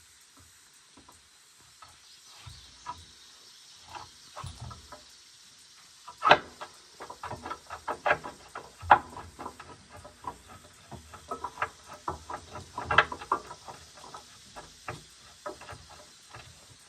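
A run of irregular clicks and knocks, sparse at first and then coming thick and fast, with a few sharper knocks among them.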